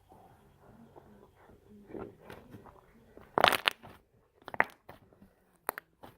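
Slime being squished and worked in the hands, giving a short burst of crackling pops about halfway through and a few single pops near the end.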